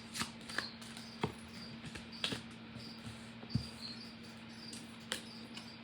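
Tarot cards being handled and drawn from the deck: a handful of soft, irregular clicks and taps over a faint steady hum.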